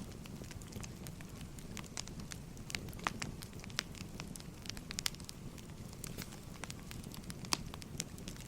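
Wood fire crackling: a steady low rumble of flames with frequent irregular sharp pops and snaps of burning logs.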